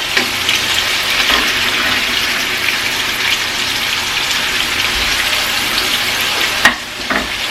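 Chicken breasts frying in hot oil: a steady, loud sizzle. A single sharp click sounds near the end.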